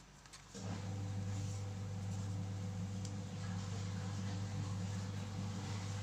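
Toy truck's electronic engine sound playing from its small speaker: a steady, even hum that starts about half a second in.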